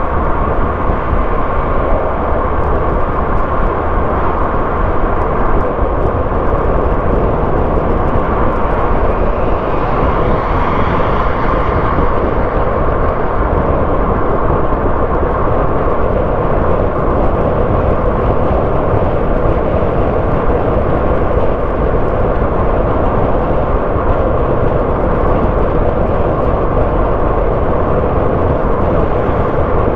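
A car driving along the road, its engine and tyre noise making a steady, even rumble throughout.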